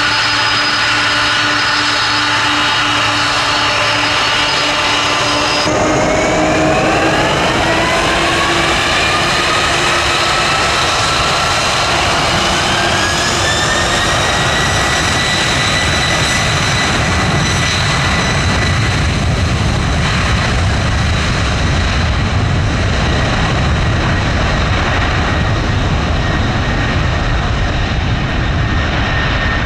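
Jet airliner engines spooling up to takeoff power. A steady whine gives way, about six seconds in, to a rising whine that climbs for about ten seconds and then levels off, while a deep rumble builds underneath.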